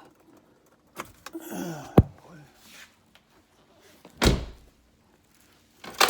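Car door opened with latch clicks, then shut with a heavy thud about four seconds in, and another thud near the end.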